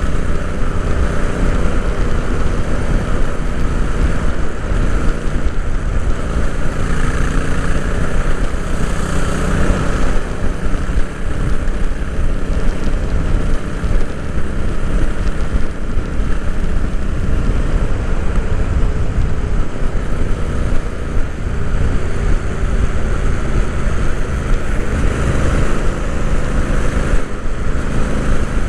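Royal Enfield Interceptor 650's 648 cc parallel-twin engine running steadily as the motorcycle is ridden, heard onboard.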